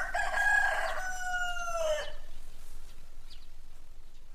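A rooster crowing once, a loud call of about two seconds with held notes that ends on a falling note. Faint hiss follows, with a few faint short chirps.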